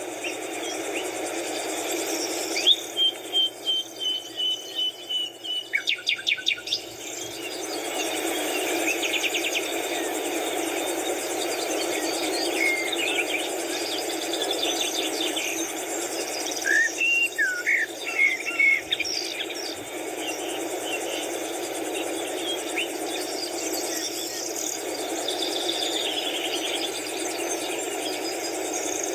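Birds chirping and calling, including quick runs of repeated notes, over a steady background noise.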